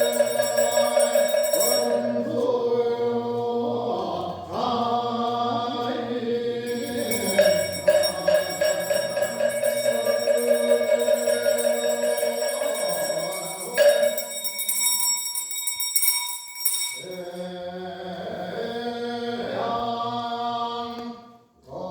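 Buddhist ritual chanting by several voices, a continuous melodic chant with held notes, breaking off briefly near the end.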